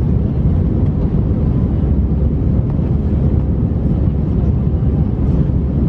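Steady low rumble of an Airbus A319's jet engines and rushing air, heard inside the passenger cabin, with a faint steady hum over it.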